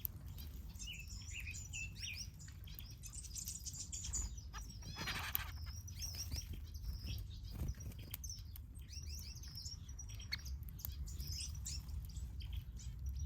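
A flock of small aviary finches chirping and twittering continuously, many short high calls overlapping, with a busier burst about five seconds in. A low steady hum runs underneath.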